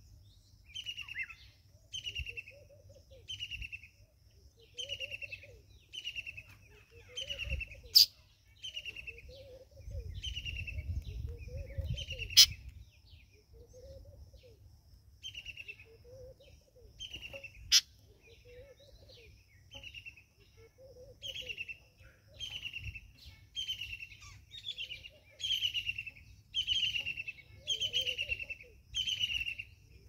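Wild birds chirping: a short falling chirp repeats about once a second, with a softer, lower arching note recurring in between. Three sharp clicks stand out, spread through the middle.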